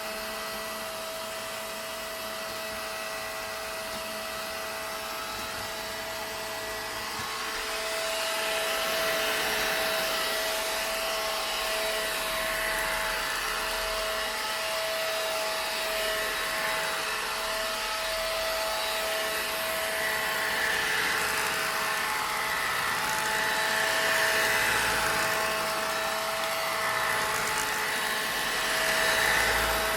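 Vacuum cleaner running continuously: a steady motor whine over a rush of air. It gets louder about eight seconds in, then wavers slightly.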